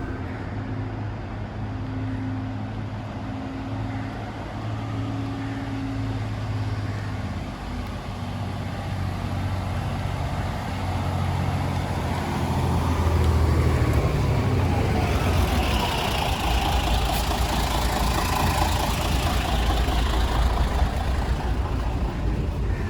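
Mercedes-Benz O307 city bus on the move: its diesel engine drones low and changes note a couple of times. From about the middle on, a rising rush of road and running noise builds over it.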